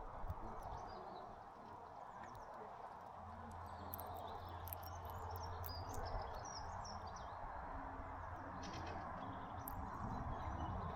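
Small songbirds chirping in short, scattered calls, busiest in the middle, over a steady hiss of outdoor background noise. A low hum comes in about three seconds in.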